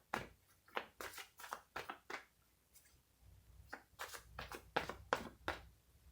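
Tarot cards being shuffled and handled: a run of short, irregular flicks and rustles, with a brief lull about halfway through.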